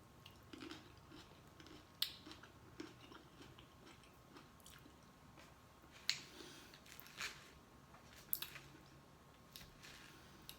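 A person chewing and eating, with faint mouth sounds and a few sharp smacking clicks, the strongest about 2, 6 and 8 seconds in.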